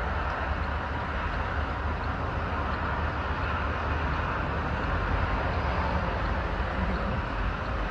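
Steady vehicle noise: a continuous low rumble with an even hiss above it and no clear engine pitch.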